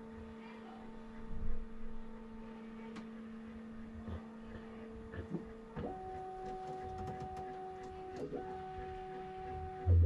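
Bambu Lab P1S 3D printer's stepper motors whining in steady tones that jump to a higher pitch about six seconds in, with a short break near eight seconds. A light knock sounds about a second and a half in.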